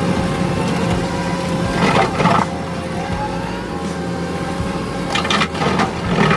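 Kubota SVL65 skid steer running under load, a steady engine hum with a constant whine over it, and two louder bursts of rough noise, about two seconds in and again near the end, as the brush cutter works through brush.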